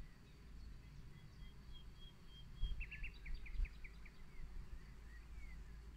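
Small birds singing faintly: a run of short high notes, then a quick trill of about eight notes around the middle, with a few scattered chirps later. Under them runs a steady low rumble, with two low thumps near the middle.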